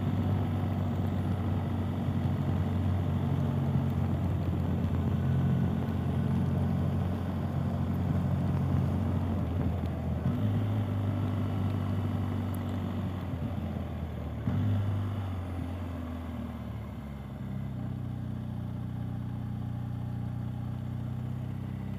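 BMW R 1250 GS Adventure's boxer-twin engine running steadily while the bike cruises, heard from the rider's helmet. The engine gets a little quieter about two-thirds of the way through as the bike slows.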